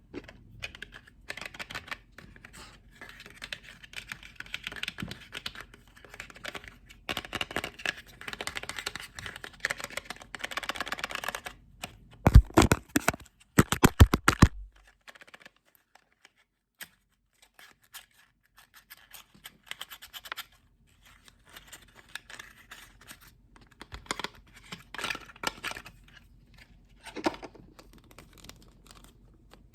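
Scratching on a lid, then a cluster of loud sharp taps about twelve to fourteen seconds in. After a short pause the scratching comes back in bursts.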